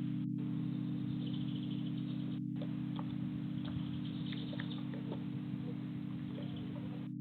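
Small garden birds at a hanging feeder bowl: faint scattered chirps and light ticks over a steady low hum.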